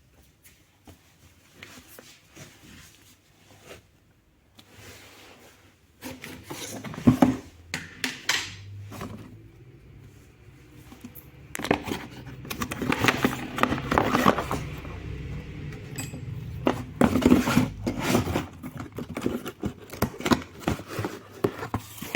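Hard plastic parts of a fan being handled: irregular clicks, knocks and scrapes, sparse at first and much busier from about six seconds in.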